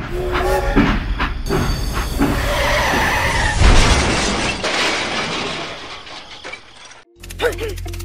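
Train crash sound effect: a long, loud clattering crash with a squeal partway through, loudest about halfway, cutting off sharply near the end.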